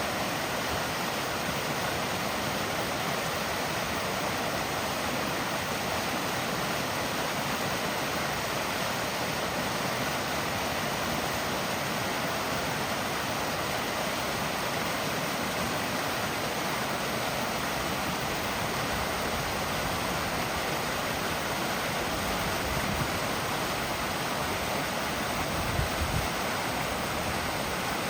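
Small waterfall spilling over rocks into a pool, a steady rush of falling water with no break. A few brief low bumps come near the end.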